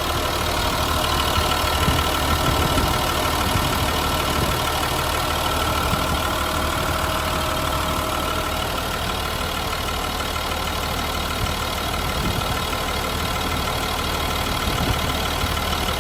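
2002 Ford F750 Super Duty truck's engine idling steadily.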